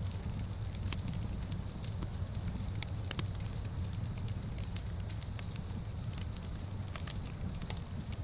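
Wood fire crackling in a fireplace: scattered sharp pops and snaps, irregularly spaced, over a steady low rumble of the flames.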